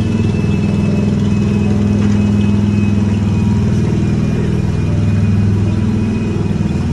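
Small engine of an open ride car running steadily, heard from the car's seat.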